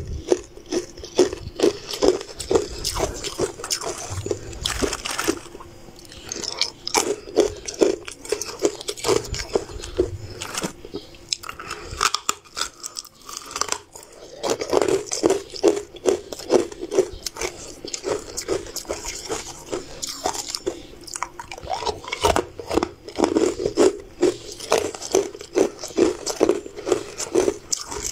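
Close-miked crunching and chewing of hard, ice-like sugar-frosted candy pieces: rapid crackly bites and chews, with a short lull about halfway.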